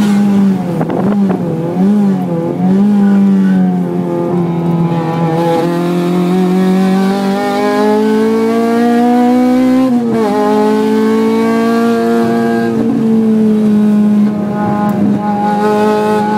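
Honda Civic Type R FD2R's 2.0-litre four-cylinder engine at high revs, heard from inside the cabin on track. The pitch wavers in the first few seconds, climbs steadily for about five seconds, drops sharply at an upshift about ten seconds in, then holds high.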